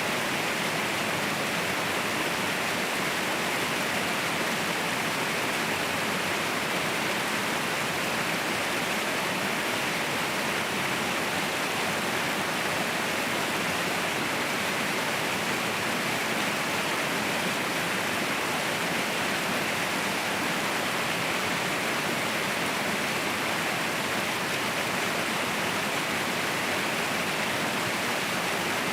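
Waterfall pouring, a steady, even rush of falling water with no breaks or changes.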